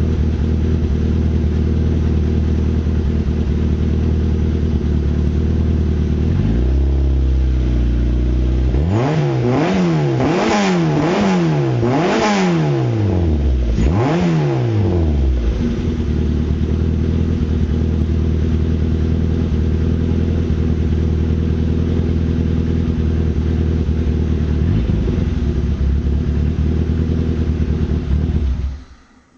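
Citroen AX's 1.6-litre 8-valve four-cylinder petrol engine idling, still warming up after a cold start. After about six seconds the idle steps up, then the engine is blipped several times in quick succession, rising and falling, before settling back to a steady idle. It stops abruptly near the end.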